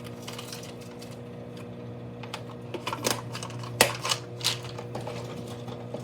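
Microwave oven running with a steady hum. Between about two and four and a half seconds in, a series of sharp clicks and knocks from plastic pill and vitamin bottles being handled, the loudest near the middle.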